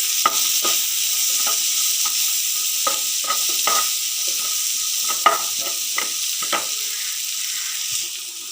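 Chopped onion and capsicum sizzling in butter and oil in a frying pan, stirred with a spatula that scrapes and taps against the pan many times. The stirring eases off about three-quarters of the way through while the sizzling goes on.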